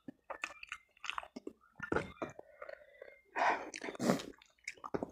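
Close-miked chewing of spicy instant noodles with rice, with wet lip smacks and mouth clicks, and two louder breathy bursts about three and a half and four seconds in.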